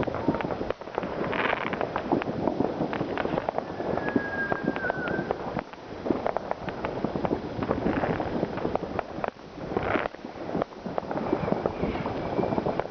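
New Year's Eve fireworks and firecrackers going off: a dense, continuous run of bangs and crackling, with a short whistle from a whistling firework about four seconds in.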